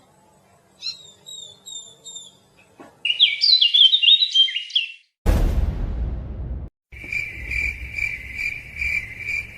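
Birds chirping, with a short loud burst of twittering chirps about three seconds in. Then a brief rushing noise. Then a cricket-like chirping that repeats about two or three times a second.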